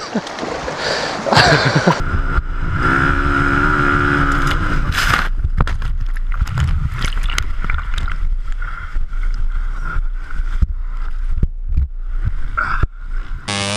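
Dirt bike engine running while water sloshes and gurgles, with scattered splashes and knocks.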